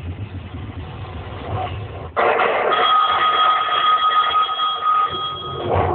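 Low background hum and murmur, then about two seconds in a sudden burst of loud crowd cheering. A steady, piercing high tone is held over the cheering for about three seconds.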